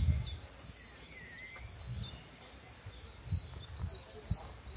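A small songbird repeats one short, high, falling note about three times a second, changing to steadier high notes near the end, over low rumbling thumps.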